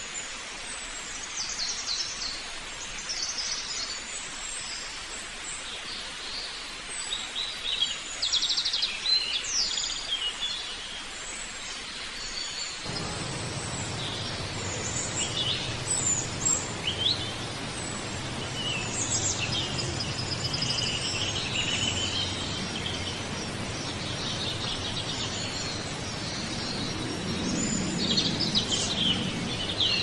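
Several birds chirping and calling in short, high notes scattered throughout, over a steady outdoor hiss. About 13 seconds in, the background noise becomes fuller and lower.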